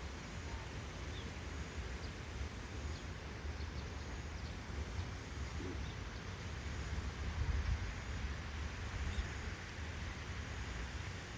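Wind rumbling on the microphone outdoors, a steady low rumble that swells briefly about two-thirds of the way through, with a few faint short bird chirps.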